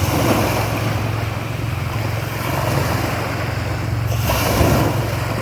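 Pumpboat's 7.5 hp gasoline engine running at a steady speed under way, over a rush of wind and waves, with wind buffeting the microphone. The rushing noise swells briefly about four seconds in.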